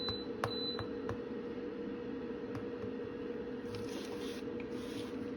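A steady low hum with a few faint light clicks in the first few seconds.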